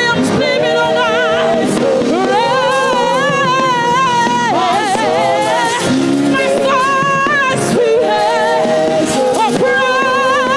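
Live gospel music: a woman sings long held notes with a wide vibrato over instrumental backing, in phrases with short breaks between them.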